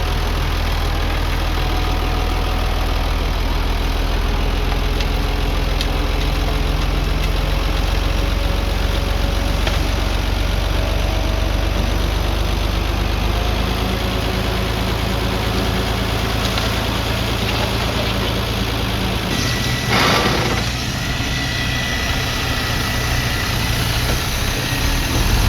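Diesel engine of heavy earthmoving equipment running steadily. Its note shifts about nineteen seconds in, and a short burst of noise follows a second later.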